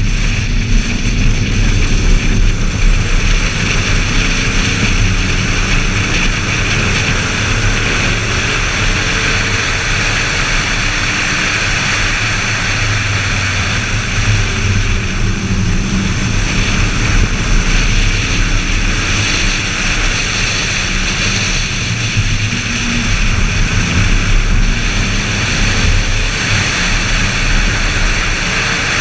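BMW Z4 M Roadster's 3.2-litre S54 inline-six running hard on track, its revs climbing and falling as it works through the gears. Heavy wind and road rush runs under it.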